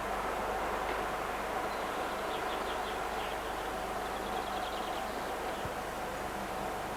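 Faint bird calls: a few quick runs of short high notes, heard over a steady background noise with a constant hum.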